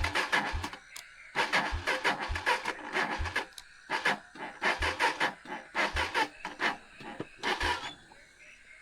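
Irregular bursts of rustling, each with a dull thump, a few a second, dying away near the end.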